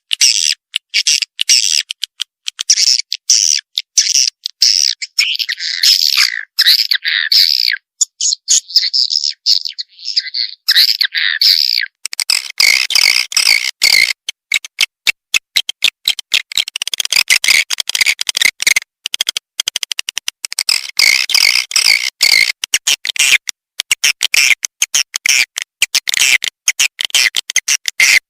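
Swiftlet lure call: a dense, rapid, unbroken stream of high chirping and twittering from a swiftlet recording, the kind played in swiftlet houses to call the birds in and make them roost. About twelve seconds in, the sound turns fuller and reaches lower.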